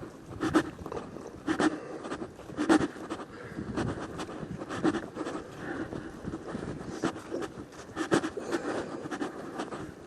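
A person walking a trail, with a crunching step and breathing about once a second in an even rhythm.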